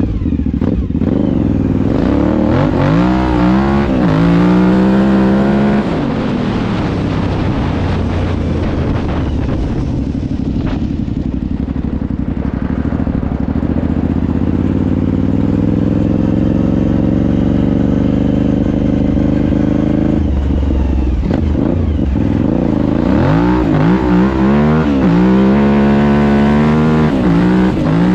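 Suzuki TL1000S 1000cc V-twin engine in a homemade quad, revving up and down as the quad is ridden. The revs climb and drop repeatedly for the first few seconds, hold fairly steady through the middle, then rise and fall again over the last several seconds.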